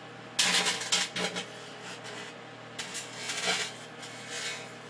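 Paperclip and foil wrapper arcing inside a running microwave oven: crackling sparks come in several short bursts over the oven's steady hum. The loudest burst is about half a second in.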